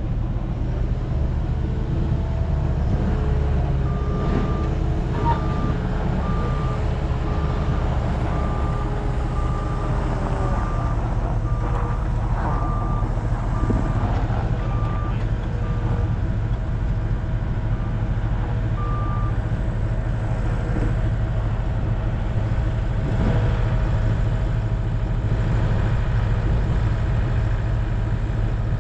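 Steady low engine drone, with a vehicle's reversing alarm beeping about once a second from about four seconds in until about nineteen seconds in.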